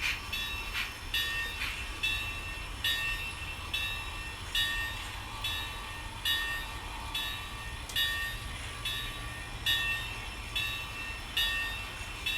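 Model 2-8-0 steam locomotive's sound playing slow, regular exhaust chuffs over a low steady hum.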